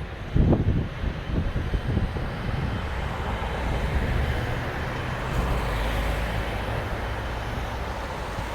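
Boeing 777-200ER jet engines as a steady low rumble while the airliner climbs away, heard outdoors. A brief, loud, low rush comes about half a second in.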